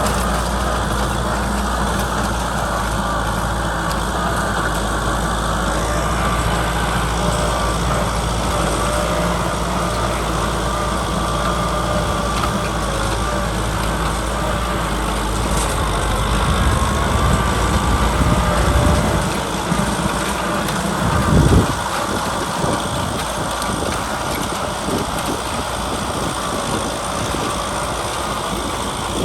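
Kubota tractor engine running steadily, with a faint wavering whine over a low rumble. The low rumble drops away about two-thirds of the way through, and a short thud comes soon after.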